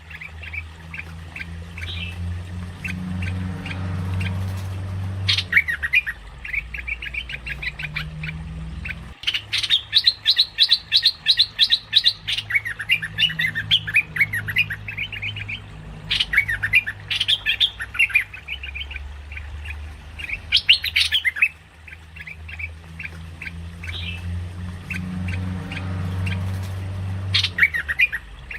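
Merbah lekir bulbul calling: repeated bouts of quick, chattering chirps and harsher squawky notes, with a dense rapid run of notes about a third of the way in, over a low background hum.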